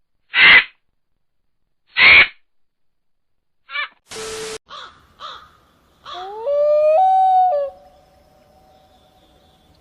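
Bird calls: two loud, harsh caws about a second and a half apart, then a few shorter calls, and about six seconds in a longer call that rises in pitch and then holds steady.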